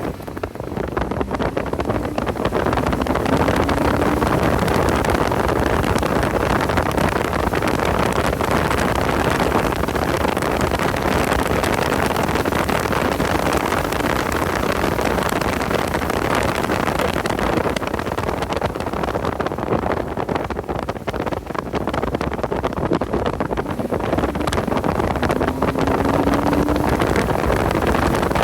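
Car driving at speed on a race track, a steady rush of wind noise on the microphone over the engine, whose note climbs briefly near the start and again near the end.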